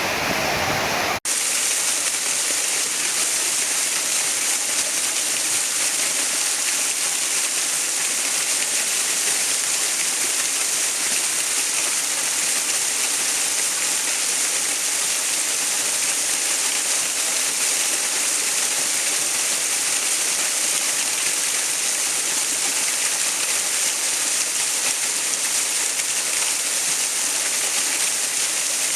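Steady rushing water, a bright, hissy roar with little low end. About a second in it switches abruptly from a fuller, deeper rush to this thinner hiss, as at a splice between two recordings.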